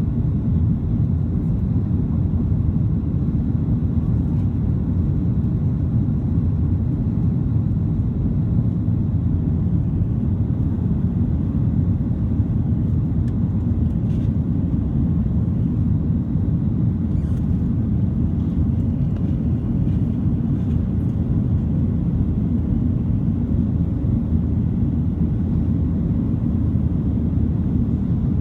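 Steady low rumble of a Boeing 737-900's CFM56 engines and airflow heard from inside the passenger cabin, even and unchanging in level.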